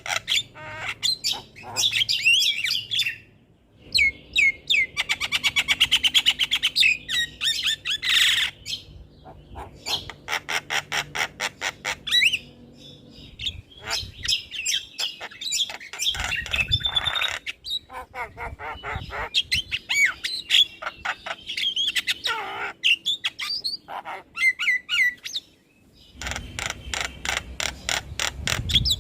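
Javan myna (jalak kebo) singing a varied song of gliding whistles and chirps, harsh squawks and fast clicking rattles, broken by short pauses.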